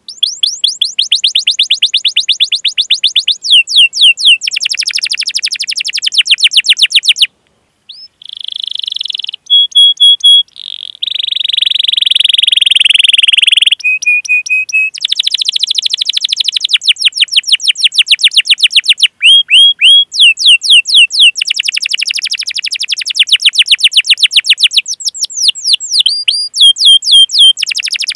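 Domestic canary singing a long, loud song of fast rolling trills made of rapidly repeated notes, broken by rising 'cuit-cuit' chirps and a few held notes, with a brief pause about seven seconds in.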